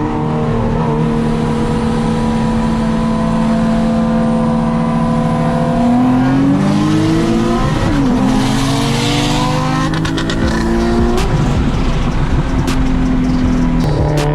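Nissan 370Z's V6 on a 75-shot nitrous setup, making a hard pull. The engine note climbs slowly, rises sharply about six seconds in, drops and climbs again, then levels off. A rushing hiss is heard for a few seconds midway.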